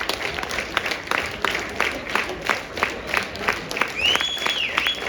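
Theatre audience applauding in unison, rhythmic clapping at about three claps a second. A high whistle rises, holds and falls about four seconds in.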